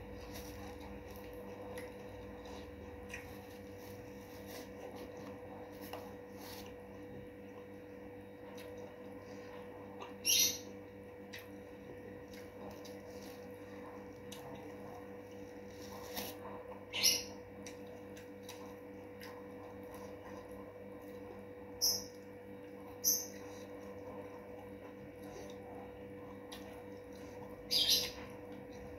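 Close-up eating sounds: about six short, sharp chewing crunches or mouth smacks spread through the stretch, over a steady faint electrical hum.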